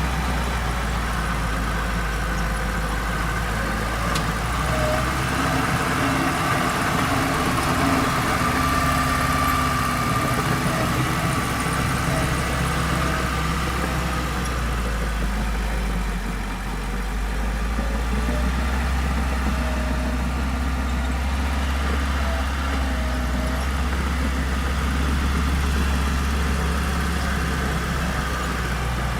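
Diesel engine of heavy earthmoving machinery running steadily, with a brief dip in level about halfway through.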